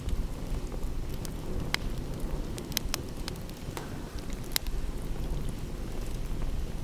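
Wood fire crackling, with scattered sharp pops, over a steady low rush.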